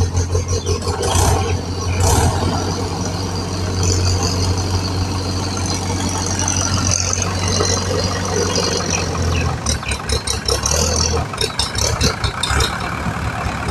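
Diesel engine of heavy machinery running steadily with a deep, even hum. About two-thirds of the way in it turns choppy and pulsing, with a rattle.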